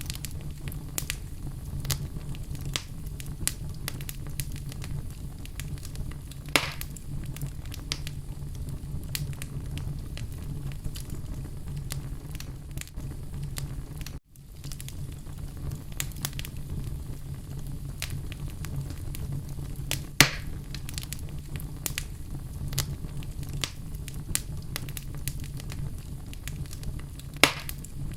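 Wood fire burning in a fireplace: a steady low rumble of flames with frequent small crackles and a few louder pops. The sound cuts out for a split second about halfway through.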